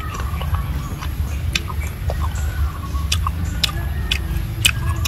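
Close-up chewing of food: a scattering of sharp, crisp crunches and mouth clicks over a steady low rumble.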